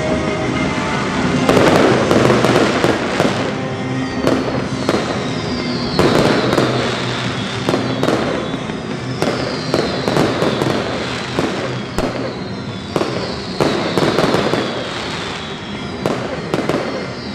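Fireworks display: rapid bangs and crackling from aerial shells and ground-level fountains, with repeated high whistles that fall in pitch.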